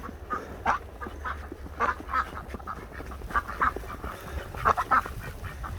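Silver Appleyard ducks quacking in many short, irregular calls, sometimes overlapping.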